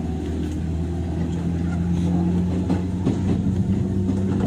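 103 series electric train under way, heard from inside its motor car: a steady traction-motor hum over wheel-on-rail rumble.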